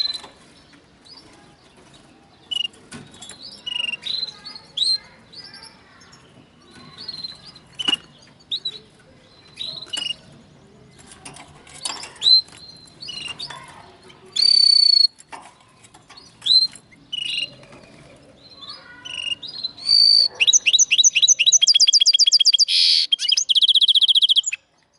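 Linnet × canary hybrid singing: scattered short chirps and quick whistled notes, then, about twenty seconds in, a loud, fast trill of rapidly repeated notes lasting about four seconds that cuts off suddenly.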